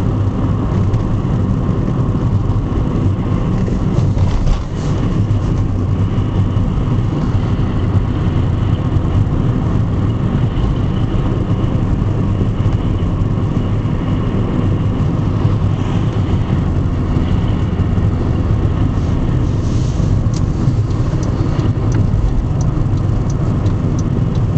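A car driving at road speed: a steady low rumble of engine and tyre noise, with a brief dip about four and a half seconds in.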